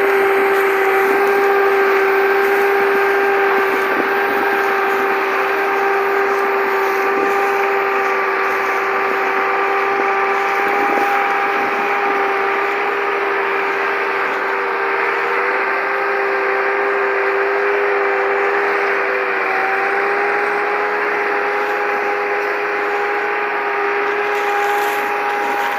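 Tractor running steadily with a constant high-pitched whine, and a second tone that wavers up and down in the middle.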